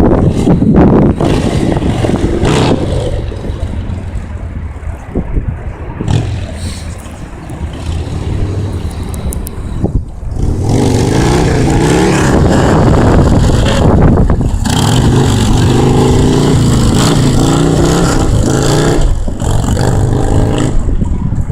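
Motorcycle engine revving, its pitch rising and falling repeatedly; it is quieter through the early middle and louder and more continuous from about halfway on.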